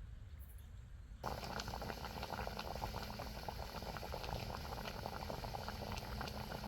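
Food sizzling and crackling in hot oil in a pan, starting suddenly about a second in and then going on steadily with many small pops.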